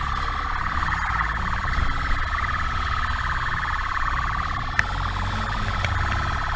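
Police motorcycle siren held near one pitch, over a steady rumble of motorcycle engine and wind noise on a helmet camera.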